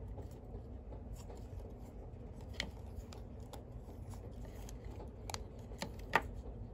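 Hands handling small plastic parts: scattered light clicks and rubbing, with one sharper click near the end, over a low steady hum.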